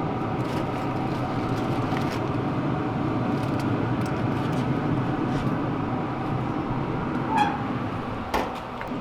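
Steady whirring hum of a Z Grill pellet smoker's fan running, with a few light clicks and knocks of handling at the grill.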